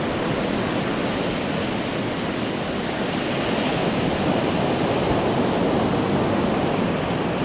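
Ocean surf washing steadily on a beach, mixed with wind on the microphone.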